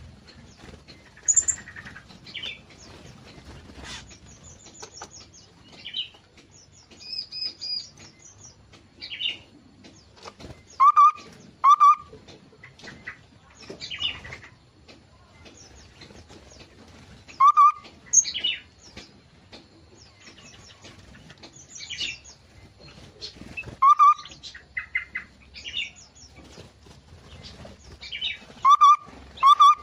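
Several songbirds in a mixed aviary calling, bulbuls among them (cucak mini and cucak ranting): short, loud call notes every few seconds, some in quick pairs, over softer, higher chirping and twittering.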